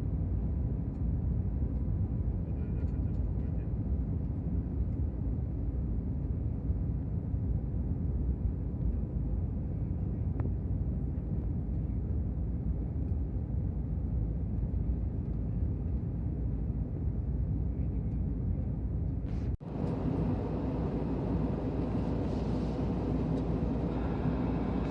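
Airliner cabin noise in flight: a steady low rumble of jet engines and airflow. Near the end it drops out for an instant and resumes a little brighter.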